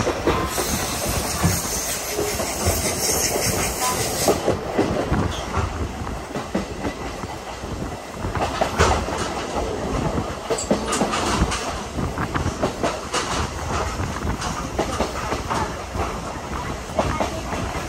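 Railway coach wheels rolling over the track, with a steady rumble and irregular clickety-clack clicks and rattles, heard from an open window of a moving steam train. A high hiss runs over roughly the first four seconds.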